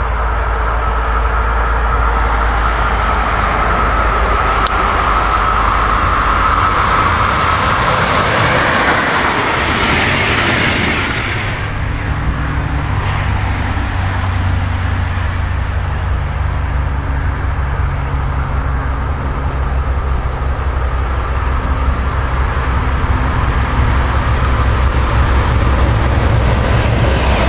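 An electric locomotive approaching with a passenger train, with a steady high whine. After a cut about twelve seconds in, a Voith Maxima diesel-hydraulic locomotive runs past with a freight train of tank wagons: its engine is a steady low hum under the rolling noise of the train.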